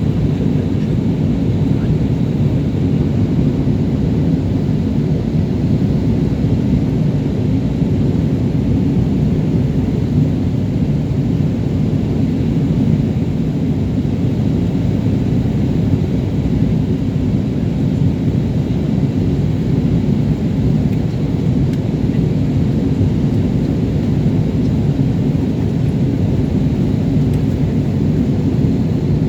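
Steady low rumble of a jet airliner in flight, engine and airflow noise as heard inside the cabin, unchanging throughout.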